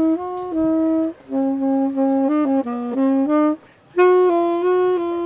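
Solo saxophone playing a single-line melody of quick notes, in phrases broken by short pauses about a second in and again around three and a half seconds in.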